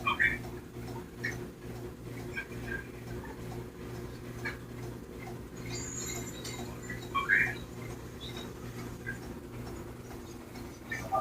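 Pet cockatiels making brief, soft chirps and small scratching or clicking sounds, scattered every second or so. A slightly louder call comes about seven seconds in. Under them runs a steady low hum.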